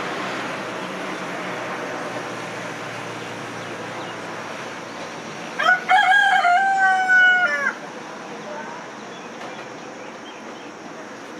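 A single long bird call about six seconds in, held at a steady pitch for about two seconds, over a steady background hiss.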